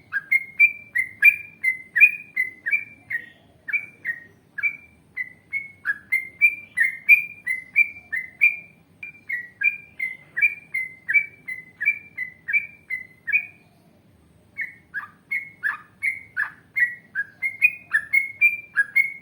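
Yellow-vented bulbul (trucukan) singing a long run of short chirping notes at about three a second, with a break of about a second partway through.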